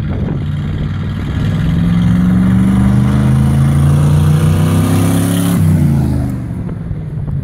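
Ford Crown Victoria V8 with dual Magnaflow exhausts accelerating at full throttle alongside a Kawasaki KLR250 motorcycle, the engine note climbing steadily as they race closer. The pitch drops sharply as the car passes by, a little over five seconds in.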